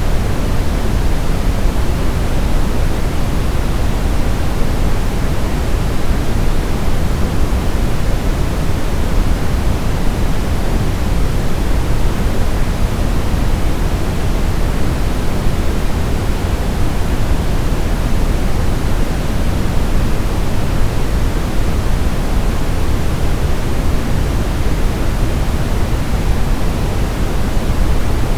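Steady, unchanging hiss of sleep-aid noise sold as white noise, heavier in the low end than in the highs, so closer to pink noise.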